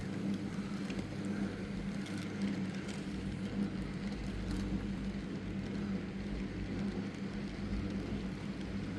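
Model train running along its track with a steady motor hum and wheel rumble, stopping just at the end.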